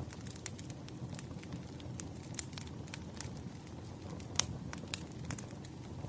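Campfire crackling: a steady low rumble of burning wood with irregular sharp pops and snaps, the loudest about four and a half seconds in.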